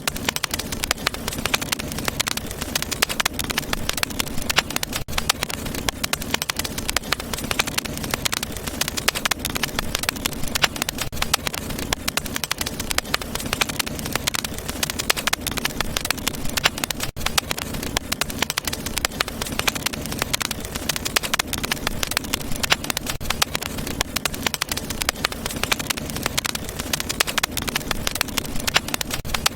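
Wood fire crackling steadily in a fireplace: a dense run of small pops and snaps over a low, steady rumble.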